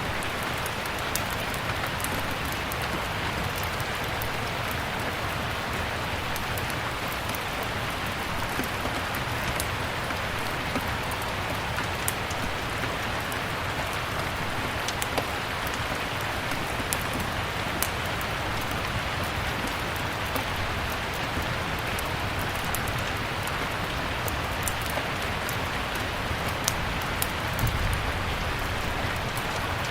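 Steady rain, with the sharp crackles and pops of a burning wood fire scattered over it, and a brief low rumble near the end.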